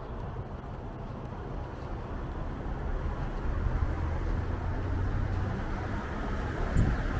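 Strong wind blowing across the microphone, mixed with street traffic noise, slowly growing louder.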